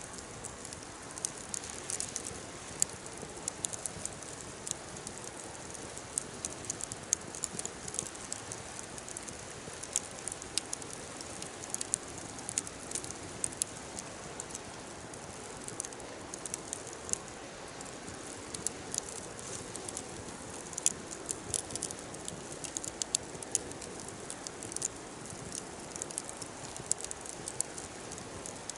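Wood fire crackling: frequent, irregular sharp snaps over a low steady hiss.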